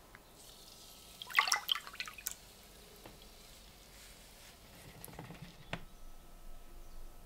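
Liquid dripping and splashing in short clusters of sharp drops, a burst about a second in and a softer one near five seconds.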